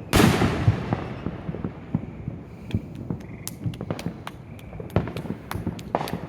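Fireworks: one loud bang just after the start that fades away over a couple of seconds, followed by many scattered sharp pops and cracks that come thickest in the second half.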